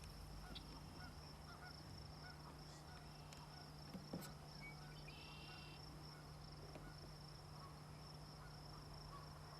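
Faint outdoor ambience with a steady high drone and a low hum, and a short, quickly repeated bird call about five seconds in.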